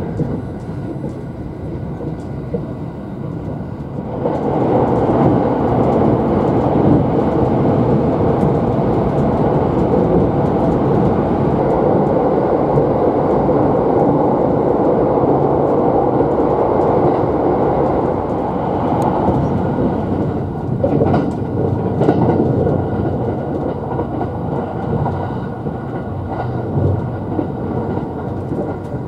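Running noise of the Thunderbird limited express train at speed, heard from inside the passenger car. About four seconds in the rumble jumps up sharply as the train enters a tunnel. It eases again around twenty seconds in as the train comes out, with a few sharp knocks around then.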